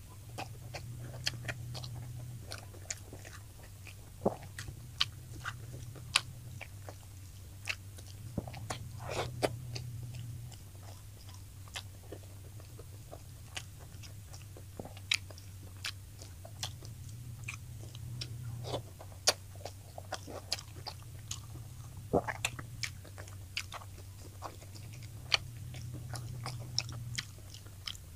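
Close-miked eating of fried tilapia: chewing and biting, with sharp crunches and wet mouth clicks at irregular intervals. A low hum runs underneath, swelling and fading every few seconds.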